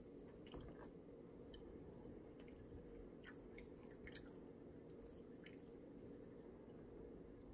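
Faint chewing and mouth sounds of a person eating chicken: scattered soft, wet clicks over a low room hum.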